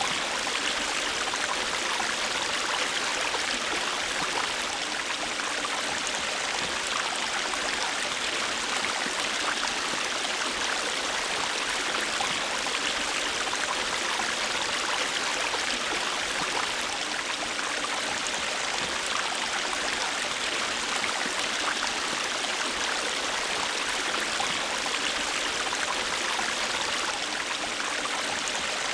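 River water flowing steadily over rocks, a continuous rushing and babbling with no let-up.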